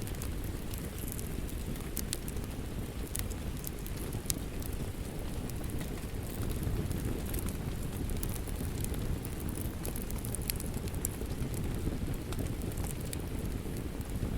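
Steady rain with a crackling wood fire: a constant low rush under scattered sharp pops and crackles.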